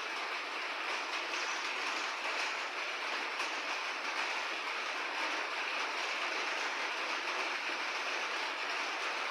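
Steady rainfall, an even hiss of dense drops with no thunder.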